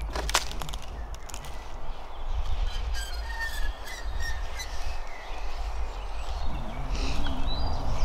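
Small birds chirping in woodland, short high calls over a steady low rumble.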